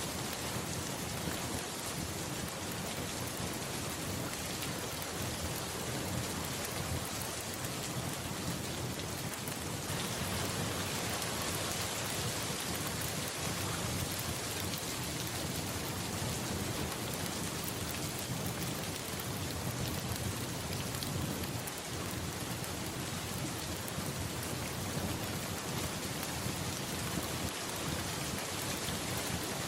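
Steady rain pattering, with a low rumble of thunder underneath; the rain grows a little louder about ten seconds in.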